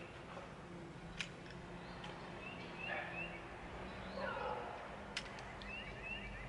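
Faint outdoor ambience with a bird singing a short phrase of quick rising chirps, repeated about every three seconds. Two sharp clicks come about four seconds apart.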